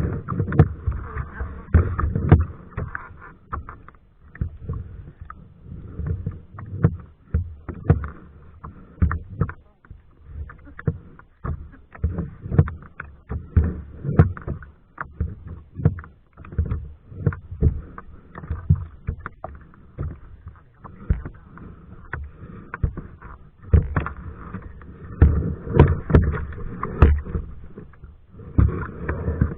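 Kayak being paddled: paddle blades dipping and splashing, with water slapping against the hull in many irregular knocks and splashes.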